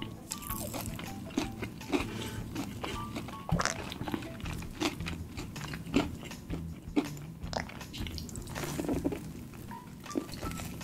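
Crunchy bites and chewing of crispy battered fried chicken, close to the microphone, as a run of short sharp crackles.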